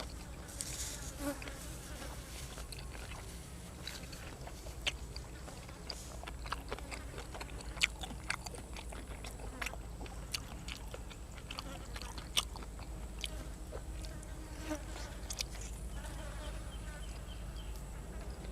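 A person chewing and crunching grilled cuttlefish and raw vegetables at close range, with scattered sharp crunches and mouth clicks over a steady low hum.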